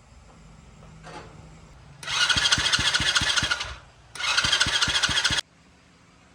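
Motorbike electric starter cranking the engine in two tries, a whirring with a regular chugging of compression strokes, each try cut off abruptly; the engine does not catch.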